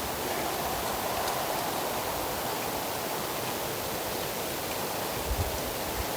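Steady rushing noise, with a few soft low thumps about five seconds in.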